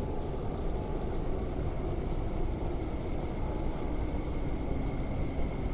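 MTR West Rail Line IKK (SP1900) train approaching through the tunnel into the underground platform. A steady low rumble, with a thin high whine that grows stronger near the end.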